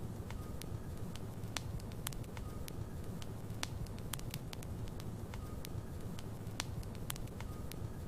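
Logs burning in a fireplace: irregular sharp crackles and pops, several a second, over a steady low rumble of the flames, with a faint brief whistle about every two seconds.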